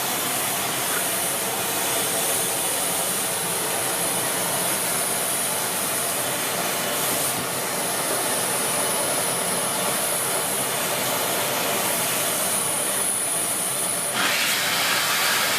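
Siemens Z6 Power 2500 W bagged cylinder vacuum cleaner running steadily, air rushing through it with a high whistle. The sound changes abruptly twice, about halfway through and again near the end, when the whistle drops out and the noise grows louder.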